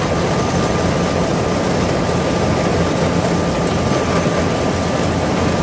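A Kubota combine harvester running steadily, a loud, even mechanical drone with a low rumble.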